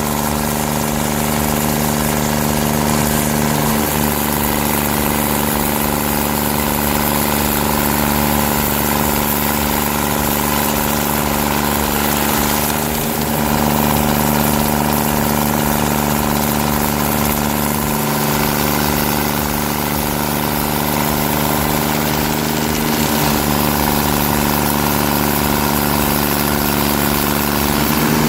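Turbo-diesel engine of a tracked stump grinder running steadily at a constant speed, its pitch shifting slightly a couple of times.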